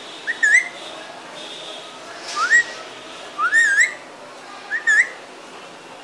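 Raw (Alexandrine) parrot whistling: four short rising whistles, a couple of seconds apart, each sliding up in pitch.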